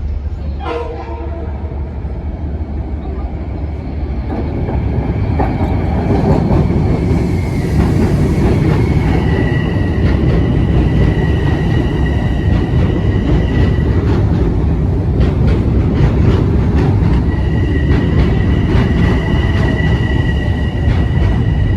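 Metro-North commuter train running through the station, its rumble growing louder over the first several seconds and then staying loud. Steady high-pitched tones, such as wheel squeal, ring over the rumble through much of the second half, with a run of rail clicks in between.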